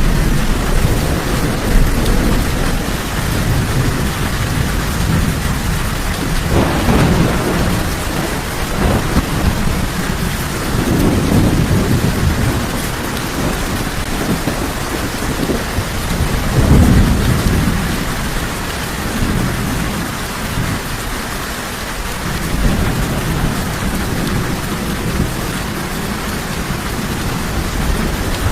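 Steady heavy rain with low thunder rumbling through it, swelling several times: about six seconds in, around eleven seconds, and again around seventeen seconds.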